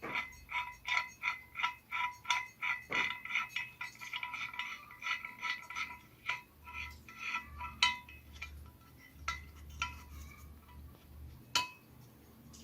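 A ringing metal part being struck or tapped lightly over and over, about three clinks a second at first, each ringing at the same pitch. Then come scattered single clinks, the loudest near eight seconds in and another sharp one near the end.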